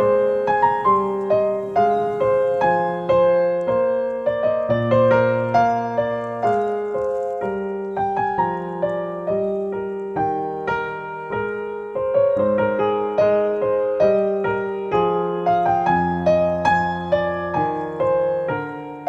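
Solo piano music: a slow melody over moving bass notes, each note struck and left to ring.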